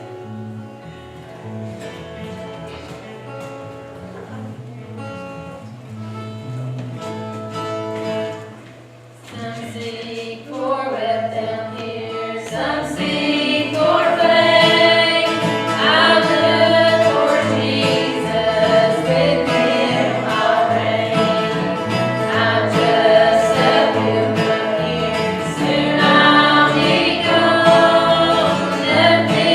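Gospel music: a softer passage with bass and guitar, then a brief lull about nine seconds in, after which a choir comes in and the music grows louder.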